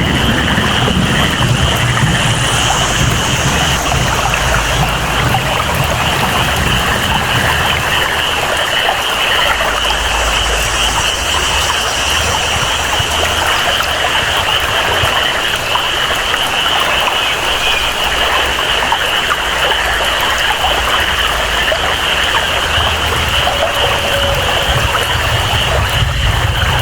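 Tropical rainforest ambience: steady rain and flowing water under a continuous high-pitched chorus of calling animals.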